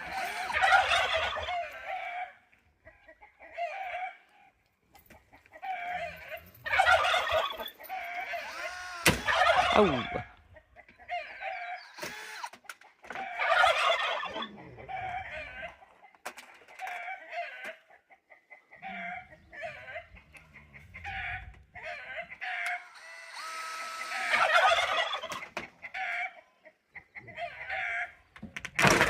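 Poultry calling repeatedly in clusters of short calls every second or two, with a few sharp knocks in between.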